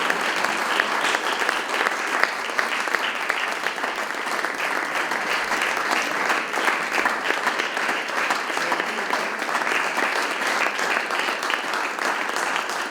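Audience applauding steadily: a dense wash of many hands clapping in a small club.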